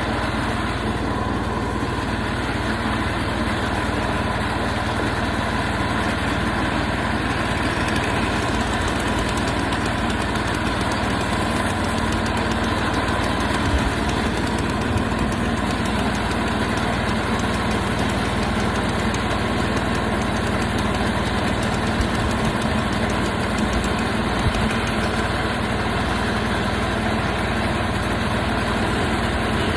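Portable sawmill's engine running steadily at an even pitch and level, with a few faint knocks.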